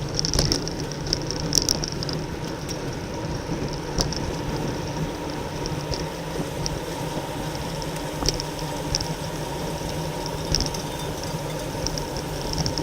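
Ride noise of a road bicycle at race speed: steady wind rush and tyre hum, with short bursts of high clicking scattered through.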